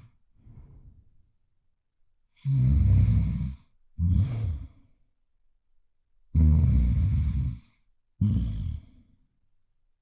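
Loud snoring, two breath cycles: each a long rough snore of about a second followed by a shorter one half a second later, with quiet pauses between cycles.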